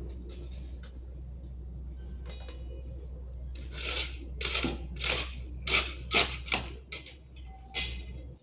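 A run of about eight quick scraping or cutting strokes from a hand tool, roughly two a second, starting a little past the middle, over a steady low hum.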